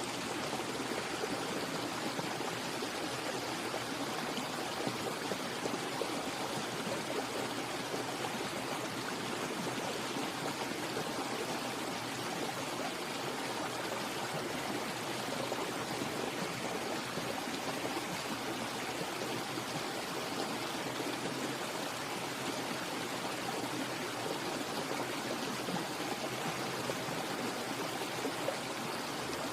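Steady, even rushing of flowing water, like a stream, with no change throughout.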